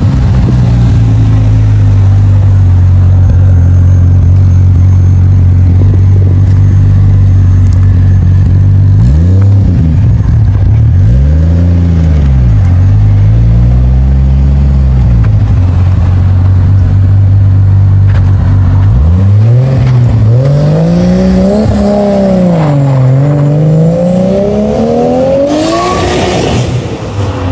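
Turbocharged MK3 Toyota Supra engine idling steadily, then revved: a few short blips, then longer, higher rises and falls in pitch. A short hiss comes near the end.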